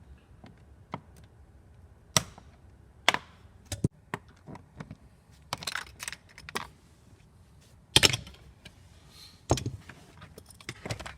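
Plastic interior trim panel being pulled loose by hand: irregular clicks, snaps and rattles of the plastic and its clips, with a few sharper snaps standing out.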